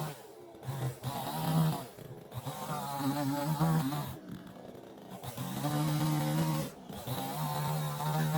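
Chainsaw running at high revs, its pitch sagging and recovering as it works, cutting off abruptly in several short breaks.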